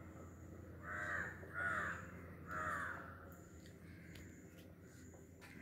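A bird calling three times in quick succession, each call short, within the first three seconds.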